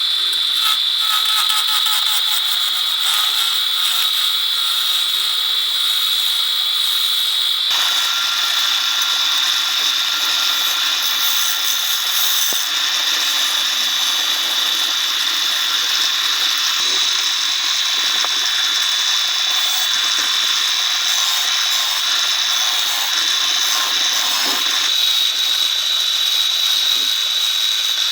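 A handheld power tool running steadily with a high whine and hiss, its sound changing abruptly about eight seconds in.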